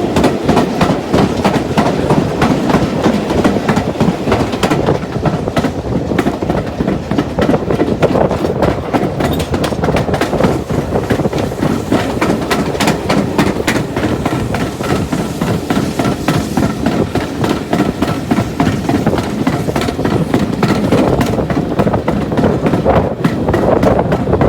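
Heritage railway train running along the line: a steady rumble with many sharp clicks from the wheels going over the rail joints.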